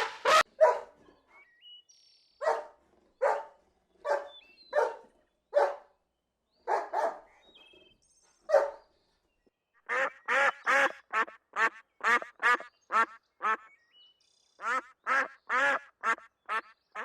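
Duck quacking: single quacks about once a second, then a fast run of quacks from about ten seconds in. Faint short bird chirps can be heard between the quacks.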